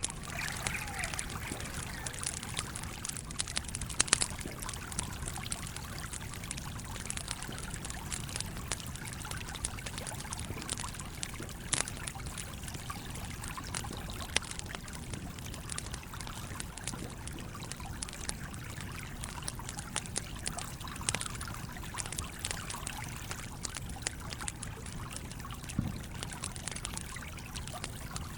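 A stream flowing steadily, with a wood campfire crackling and popping over it in frequent short snaps; the sharpest pops come about four seconds in and again near twelve seconds.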